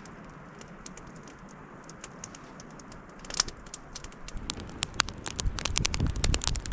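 Wood fire crackling: sparse pops at first, then dense, irregular crackles from about halfway, over a low rumble.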